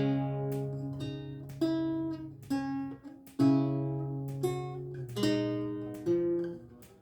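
Renaissance lute with gut strings played solo: plucked chords and single melody notes ring over a sustained bass, with a brief break about three seconds in before a new chord.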